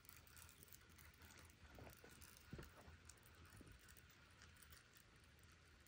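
Near silence: quiet outdoor ambience with a few faint, soft clicks.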